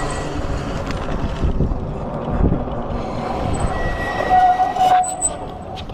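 Freego X2 electric dirt bike riding over rough ground, with steady rumble and wind noise. A high squeal rises out of it about four seconds in and cuts off suddenly near the end. This is the back-wheel squeak that the rider says whines like a donkey.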